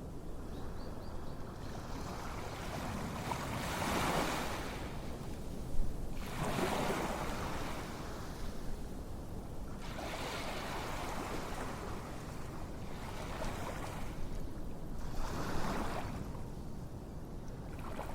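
Ocean waves washing in, a rushing noise that swells and fades every few seconds. One sharp click about six seconds in.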